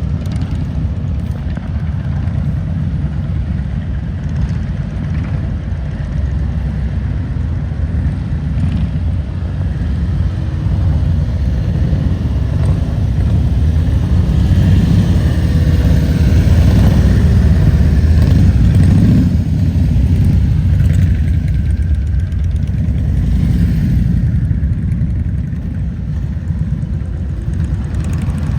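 Motorcycle engines running at low speed, a steady low rumble that swells louder about halfway through as the bikes come closer, then eases off.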